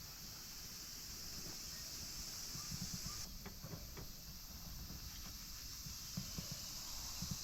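Steady high-pitched insect chirring in the background, with a few soft, low knocks about three seconds in and again near the end.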